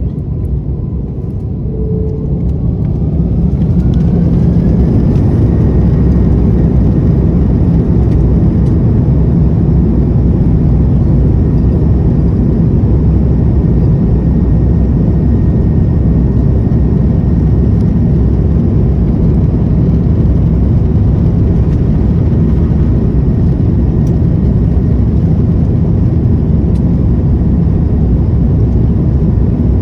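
Airbus A330-200 jet engines spooling up to takeoff thrust, a whine rising in pitch over the first few seconds and then holding steady, over a loud, even rumble of the takeoff roll.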